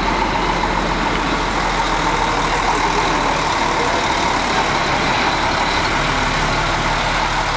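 Large diesel bus engine running steadily, with no revving or gear changes.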